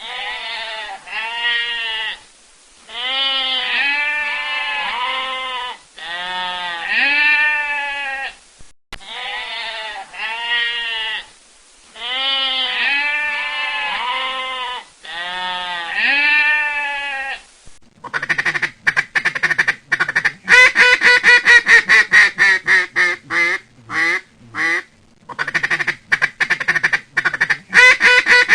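Ducks quacking in repeated series of short calls, in bouts separated by brief pauses. About eighteen seconds in it changes to a faster, louder stream of quacks.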